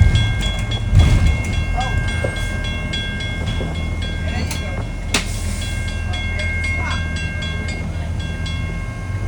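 Loaded freight train of grain hopper cars rolling past on a curve: a steady low rumble with wheel clicks and a sharp knock about a second in and again about five seconds in. Over it run several steady high squealing tones that break off and resume, typical of wheel flanges grinding against the rail on the curve.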